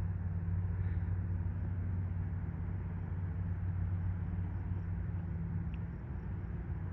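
Distant drone of a C-47's twin radial piston engines at full power as the aircraft climbs out after takeoff, a steady low hum that eases slightly near the end.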